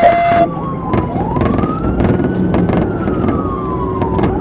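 Police car siren on a slow wail: one long rise in pitch and a slow fall, over loud road and engine noise from the pursuing car. A short steady beep with a burst of hiss sounds right at the start.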